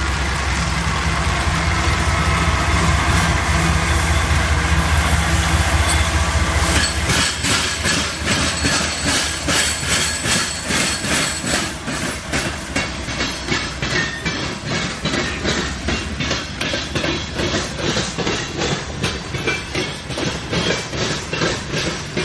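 Freight train passing: a diesel locomotive's engine drones for the first several seconds, then fades under a steady, rhythmic clickety-clack of empty grain cars' wheels over the rail joints.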